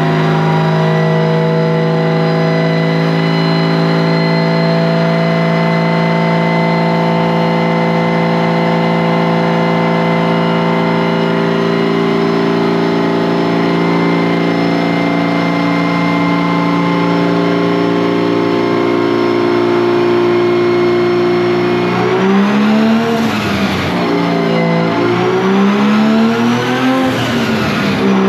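A turbocharged drift car's engine running loud at a steady speed, then revved up and down repeatedly over the last several seconds.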